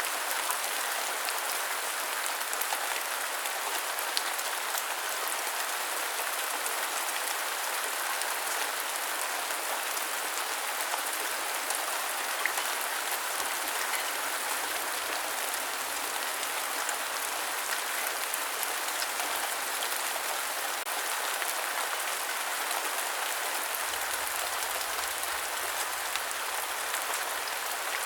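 Steady rain falling: a dense, even patter with a few louder drops now and then.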